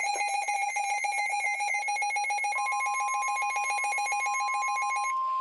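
Electronic alert tones: a rapid, pulsing ringing beep, joined about halfway by a steady pure tone near 1 kHz like the NOAA Weather Radio 1050 Hz alert tone. The pulsing stops shortly before the end, leaving the steady tone.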